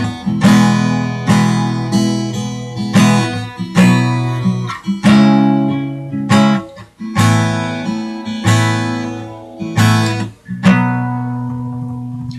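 Acoustic guitar strumming an instrumental break in a country song, one chord struck about every second and left to ring.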